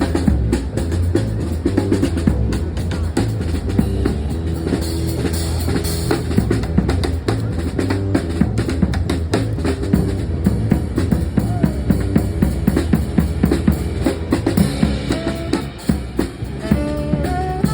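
Music led by a drum kit: fast, busy drumming with bass drum and snare over a steady low bass.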